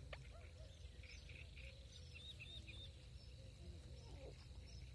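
Near silence: faint birds chirping a few short notes over a low, steady background rumble.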